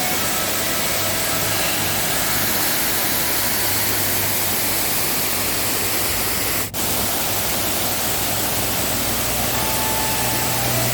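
Waterfall in rainy-season flood, water pouring in a loud, steady rush; the sound drops out for an instant about two-thirds through.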